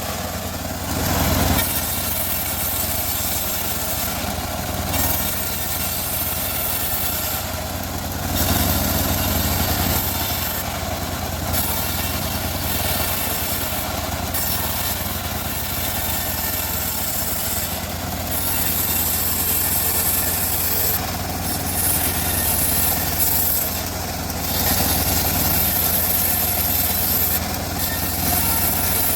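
Homemade bandsaw mill running with a steady low hum while its blade saws through teak, the hiss of the cut swelling and easing every few seconds.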